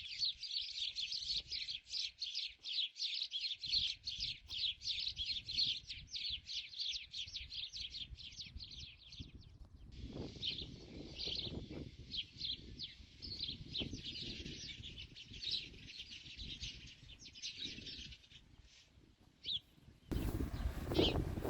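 Small birds chirping: a fast, unbroken series of short chirps for about ten seconds, then fewer and more spaced-out chirps over a low rumbling noise. Near the end the sound changes suddenly to a louder, fuller noise.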